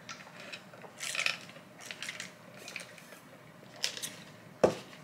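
Close-miked eating sounds of someone chewing fries: a few short, soft, crunchy and wet bursts, with a sharp click near the end.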